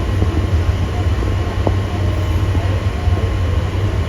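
Wind buffeting the microphone on the open deck of a cruise ship under way: a steady, gusty low rumble with a hiss over it.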